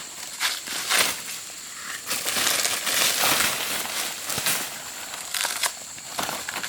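Irregular crunching and rustling of dry plant material, like leaves and twigs being trodden or handled, in a quick run of sharp crackles.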